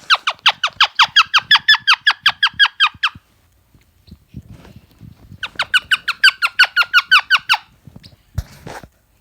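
Pet parrot giving rapid, repeated squeaky chirps, about six or seven a second, in two runs of a few seconds each, followed by a short knock near the end.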